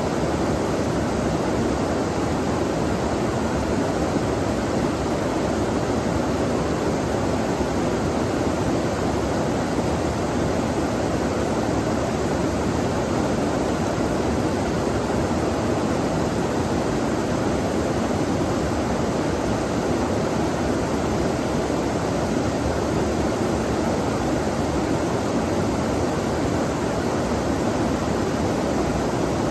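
Flowing stream water rushing steadily, an even unbroken wash of sound.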